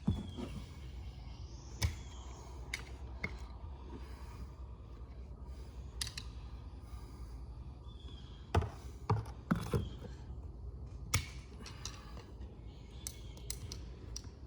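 Scattered sharp clicks and knocks of hand tools and metal parts being handled while a torque converter is taken apart, with a cluster of them about two thirds of the way through, over a steady low hum.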